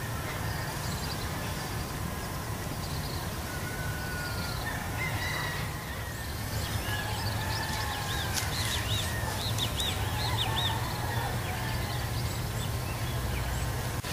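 Several birds calling: short chirps and quick, repeated rising-and-falling notes, busiest in the second half, over a steady low rumble.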